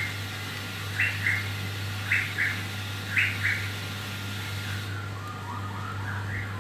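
A bird calling in short two-note phrases about once a second, then a run of quick rising notes near the end, over a steady low hum.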